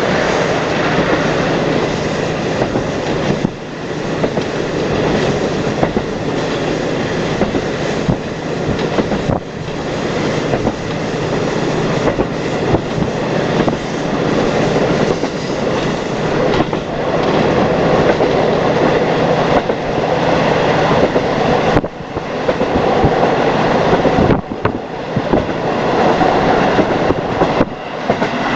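Local train running, heard from inside the car: a steady drone with the clack of the wheels over rail joints.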